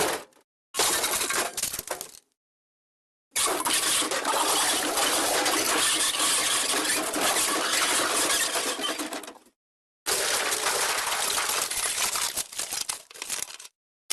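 Stock smash sound effects played one after another with dead silence between them: a short crash, then a long crash of clinking, tumbling debris lasting about six seconds, then another crash that dies away.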